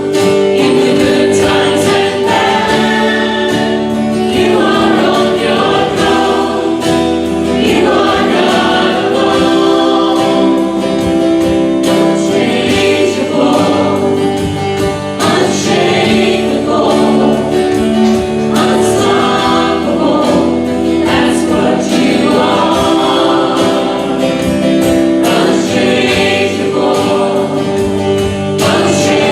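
Congregation or choir singing a hymn with instrumental accompaniment.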